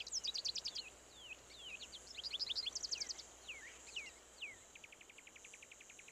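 Small birds chirping in quick, high, falling notes, then about two-thirds of the way through an insect, likely a cricket, starts a rapid, even trill.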